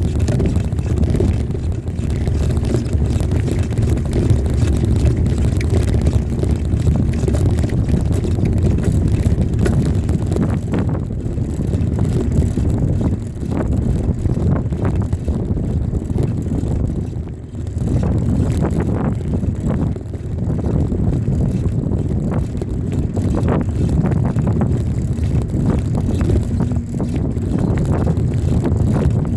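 Wind buffeting the microphone of a camera carried on a moving bicycle, a loud steady low rumble with brief lulls about two-thirds of the way through.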